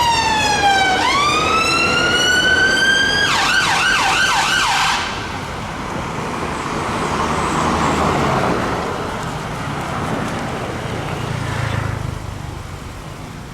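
A London emergency vehicle's siren sounding a wail that falls and then rises, switching to a fast yelp for about a second and a half before cutting off suddenly. Road and engine noise of passing traffic follows, swelling twice before fading.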